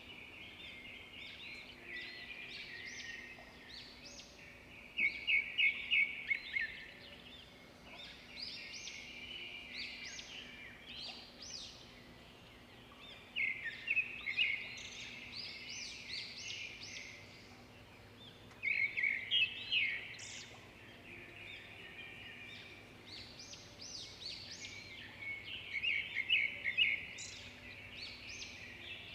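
Songbirds singing and chirping in a continuous chorus of short high trills, with a louder song phrase standing out four times: about five, thirteen, eighteen and twenty-five seconds in.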